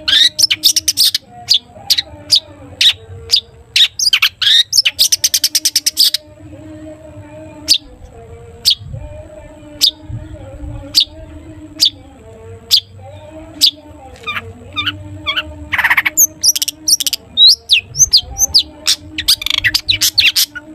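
Long-tailed shrike singing loudly in short, sharp chirps: a fast even trill about five seconds in, a sparser stretch of single notes, then a dense run of calls in the last third.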